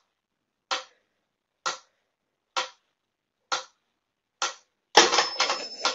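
Mechanical pyramid metronome ticking steadily, five sharp ticks a little under a second apart, followed about five seconds in by a burst of dense noise.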